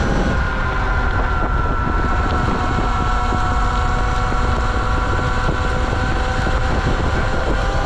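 Sur-Ron X electric dirt bike's motor whining as it is ridden, a steady whine that sinks slightly in pitch, under the rumble of wind on the microphone.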